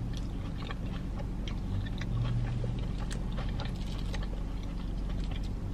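Close-up chewing of a mouthful of Korean fried cheese (a breaded, deep-fried mozzarella stick), with scattered small wet clicks and crackles from the mouth over a steady low hum.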